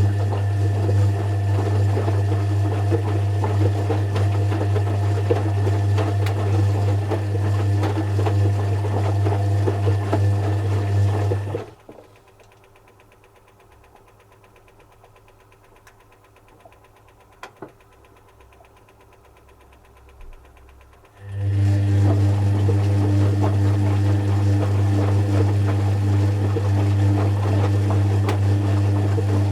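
Zanussi FC1000 compact washing machine running with a loud, steady low hum. The hum cuts off abruptly about twelve seconds in, leaving a quiet stretch with a couple of faint clicks, then starts again abruptly about nine seconds later.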